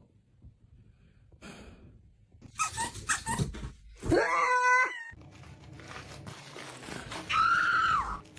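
A pet calling twice: a loud drawn-out call about four seconds in that rises in pitch and then holds for about a second, and a shorter, higher call near the end whose pitch rises and falls.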